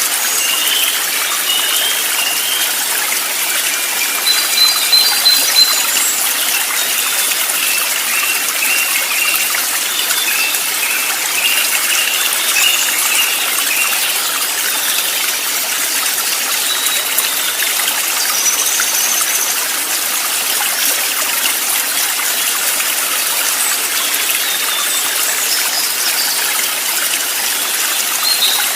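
Steady rush of flowing stream water, with small birds chirping over it in short quick runs of high notes.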